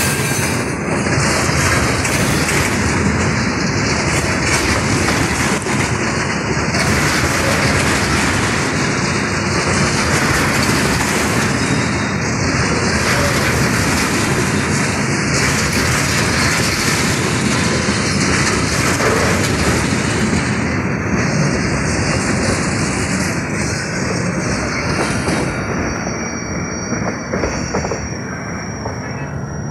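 Freight train of tank wagons rolling slowly past close by over a street level crossing: a continuous rumble and clatter of steel wheels on the rails, swelling and dipping every few seconds as the cars go by. A thin high squeal comes in near the end.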